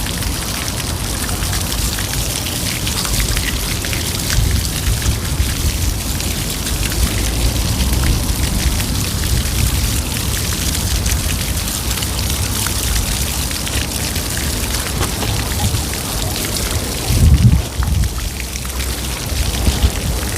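Steady rain pattering, with a low rumble underneath and a louder bump near the end.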